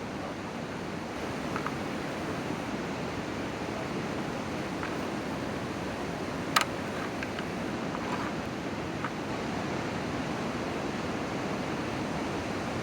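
Steady outdoor rushing noise, with a few faint ticks and one sharp click about six and a half seconds in.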